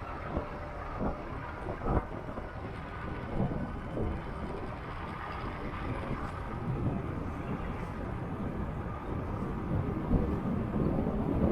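Motorcycle on the move, its engine and road noise under a steady rumble of wind on the microphone, with a few short thumps along the way.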